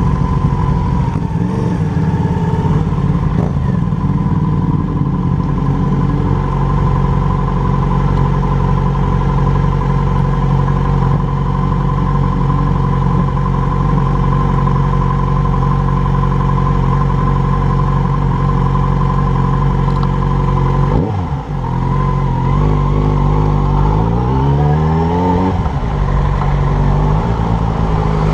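Yamaha motorcycle engine idling steadily while stopped in traffic, then, about three-quarters of the way through, the note dips briefly and climbs in pitch as the bike pulls away, settling into steady running at low speed.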